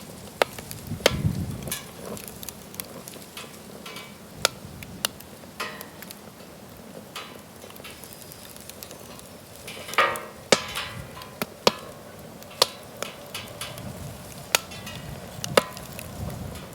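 Wood campfire crackling in a fire pit, with irregular sharp pops and snaps over a soft hiss. It flares into a brief burst of hissing crackle about ten seconds in.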